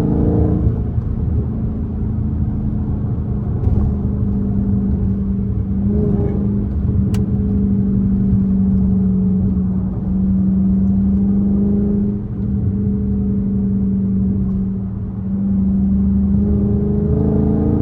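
Straight-piped Dodge Charger Scat Pack's 6.4-litre 392 HEMI V8 running under way, a steady low exhaust tone that dips briefly a few times.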